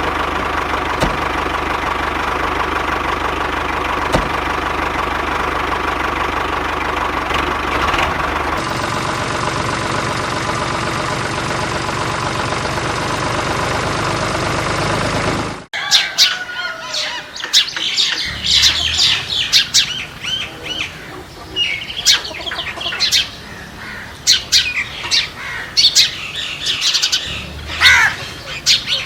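A steady, dense sound for about the first half that cuts off suddenly, then many birds chirping and squawking in quick, overlapping calls.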